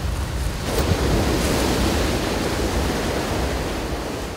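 Waves breaking and surf washing up the beach in a steady rush, swelling louder about a second in, with wind buffeting the microphone.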